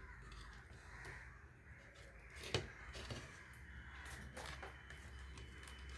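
Faint crows cawing in the background. A few light clicks and taps are heard, the sharpest about two and a half seconds in.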